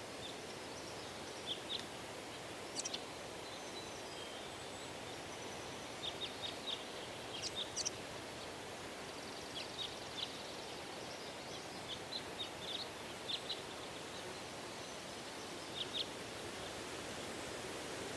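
Steady rustle of wind through trees, with small birds chirping in short, high bursts scattered throughout.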